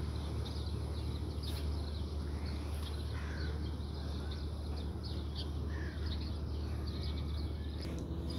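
Birds chirping and calling over and over, short high notes with a few gliding calls, over a steady low hum.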